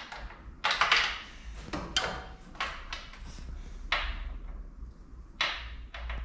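A series of about five sharp clanks and clatters of tools and metal parts during work on a car's gearbox mount, the loudest about a second in.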